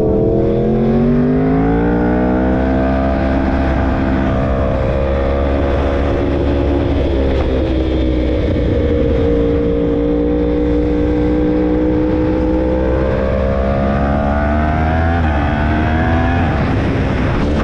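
Yamaha R1 inline-four sport bike engine under way: the pitch climbs over the first few seconds, holds and sags, then climbs again and falls sharply near the end. A steady low rumble of wind buffeting runs underneath.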